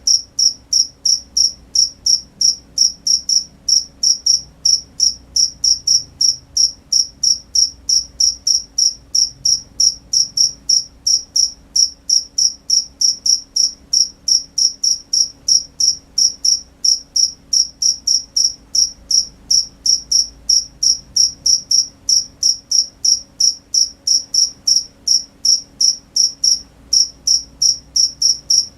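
A cricket chirping in an even, high-pitched pulse, about three chirps a second, with a brief break near the end.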